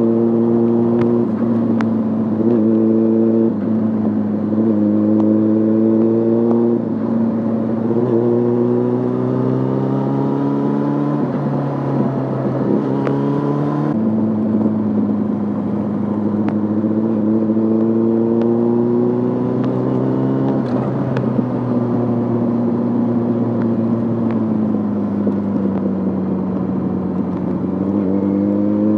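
Yamaha Fazer 600's inline-four engine through a handmade exhaust, pulling through the gears. Its pitch climbs and drops back at each upshift, several times in the first half, then falls slowly as the bike eases off, before it accelerates again near the end.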